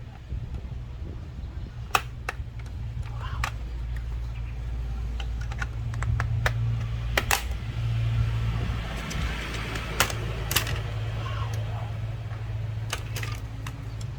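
Scattered sharp clicks and taps of small tools and plastic parts being handled as a Wi-Fi hotspot modem is opened up, over a steady low hum.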